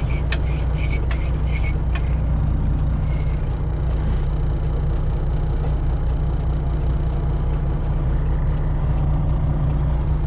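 Semi truck's diesel engine running steadily at low speed, heard from inside the cab, with a quick run of short high beeps about three a second during the first two seconds.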